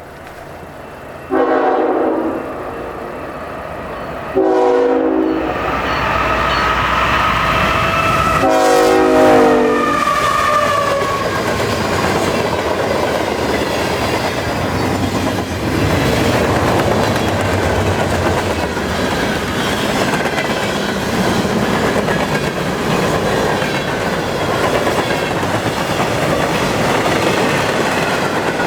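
Freight train passing at speed: the lead diesel locomotive sounds its horn three times, the last blast the longest, then the locomotives go by and a long string of freight cars rolls past with a steady clickety-clack of wheels on the rails.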